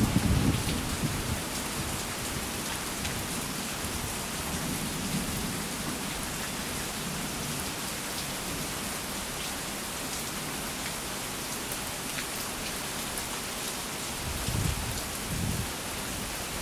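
Steady rain falling in a thunderstorm, an even hiss throughout. A low rumble of thunder fades out in the first second or so, and a short low rumble comes near the end.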